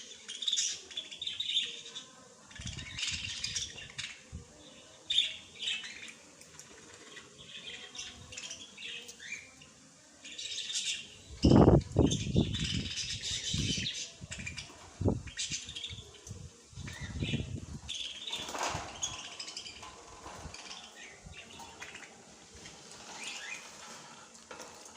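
Small birds chirping and twittering, many quick overlapping chirps throughout. A few low thumps come about halfway through.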